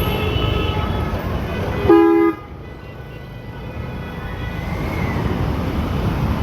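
A vehicle horn honks once, briefly, about two seconds in, over a steady rumble of road traffic.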